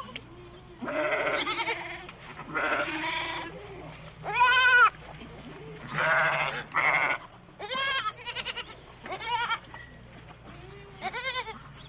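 Several livestock animals bleating in turn: about nine wavering calls, some high-pitched and some deeper, the loudest a little over four seconds in.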